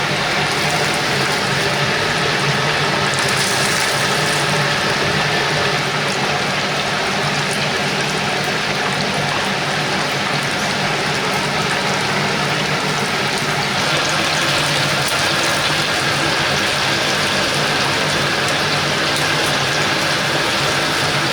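Chicken deep-frying in hot oil: a steady sizzle.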